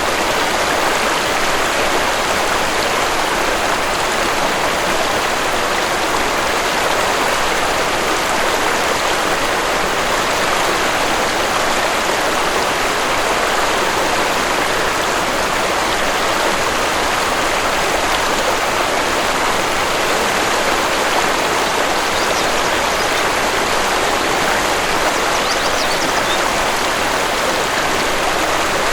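Waterfall: a steady, even rush of falling water, with a few faint high bird chirps near the end.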